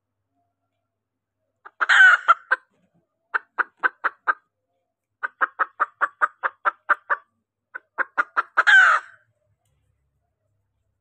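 Female junglefowl calling, a lure call for drawing in males: a loud squawk about two seconds in, then two runs of quick, evenly spaced clucks, and another loud squawk near the end, with dead silence between and after.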